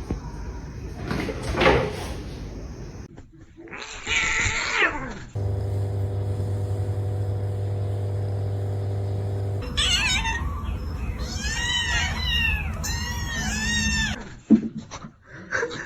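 Cat meowing and crying, with a run of short, high, arching mews repeated about twice a second in the latter half; a steady low buzz sits in the middle.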